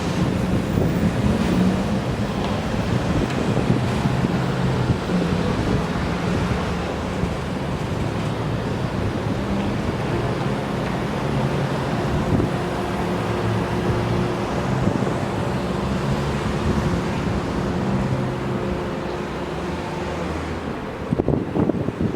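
An engine running steadily with a low, even hum, with wind buffeting the microphone.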